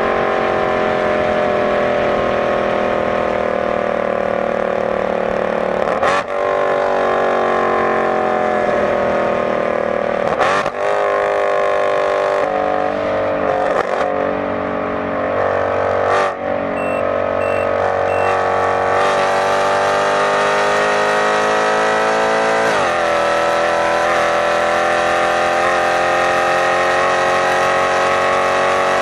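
Mercedes-Benz C63 AMG's V8 engine running hard at high speed, its note slowly climbing in pitch under acceleration, with four brief dips where the pitch drops and then picks up again.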